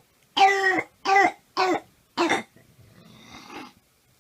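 A young child's croup cough: four short, pitched, barking coughs in quick succession, then a longer, quieter noisy breath in.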